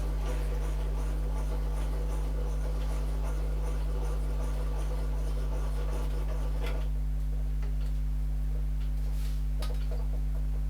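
A machine's electric motor runs with a steady low hum. A fine scratchy rattle rides over it and stops about seven seconds in, and a few sharp clicks follow near the end.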